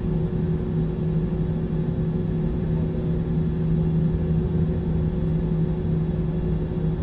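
Airliner cabin noise: a steady low rumble of the jet engines and airflow with a constant low hum.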